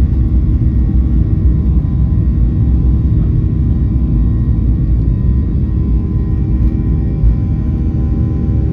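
Boeing 737-800 heard from inside the passenger cabin: a steady, loud, low rumble of engine and airflow noise, with a constant hum of several steady tones from its CFM56-7B jet engines.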